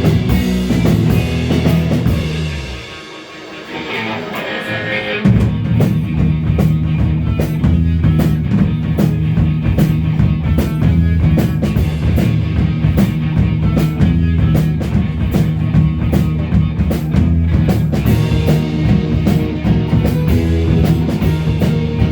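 Live indie rock band playing an instrumental break with drums, bass and guitar. Just after two seconds in the drums and bass drop out and only a thin high part carries on. About five seconds in the full band comes back in with a steady beat.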